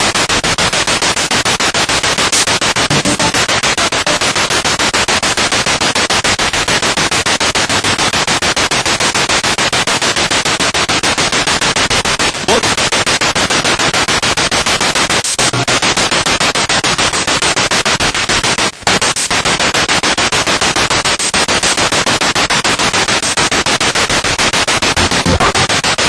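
Spirit box radio sweeping rapidly through stations: loud continuous static chopped into fast pulses, with two brief dropouts.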